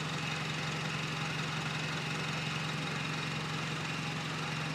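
2008 Honda Civic's R18 1.8-litre four-cylinder engine idling steadily through a Weapon R header and Skunk2 Megapower cat-back exhaust, a constant low drone.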